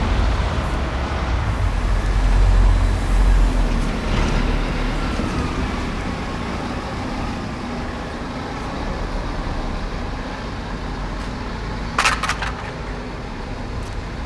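Road traffic passing, with a heavy vehicle's low engine rumble strong for the first few seconds and then easing off. A faint falling whine comes about four seconds in, and a short burst of high squeaks about twelve seconds in.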